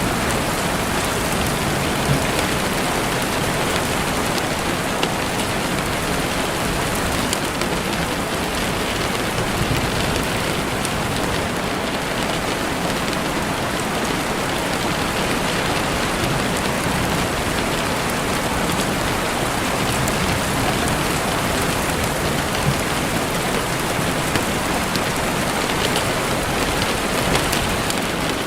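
Heavy rain falling steadily and densely on a window, with occasional sharper drop ticks against the glass.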